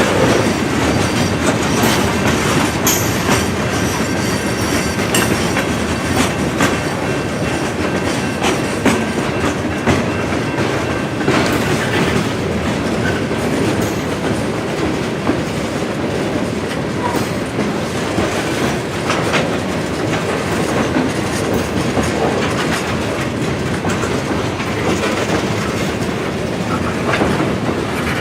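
Freight cars rolling steadily past, the wheels clicking over rail joints with a continuous rumble of steel wheels on rail.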